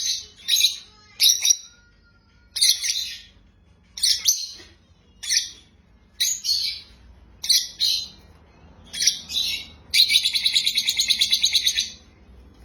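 A small bird chirping: a string of short, high chirps roughly a second apart, then a fast, rapidly pulsing trill lasting about two seconds near the end.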